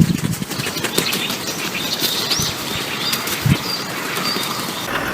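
Birds flapping their wings in a dense flutter, with a few short high chirps in the middle.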